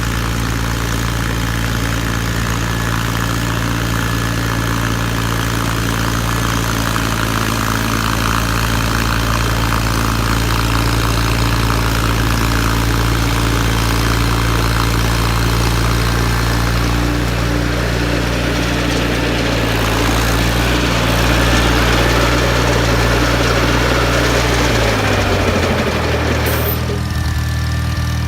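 John Deere 318 garden tractor's two-cylinder engine running steadily while driving a Model 49 snowblower, with a rushing hiss over it. Near the end the engine's pitch drops and the hiss falls away.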